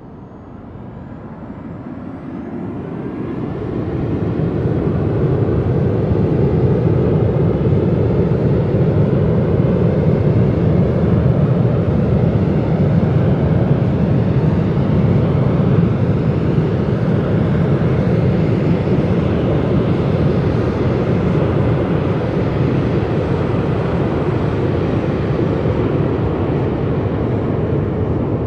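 Jet airliner engine noise that builds over the first four seconds, then holds as a loud, steady, low rumble.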